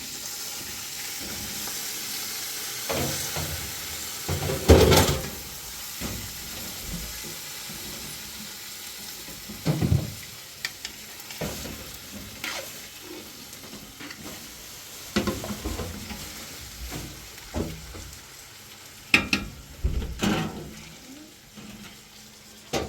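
Food sizzling in a hot pan, a steady hiss, with utensils clattering and knocking against the pan now and then; the loudest knocks come about five and ten seconds in and again near the end.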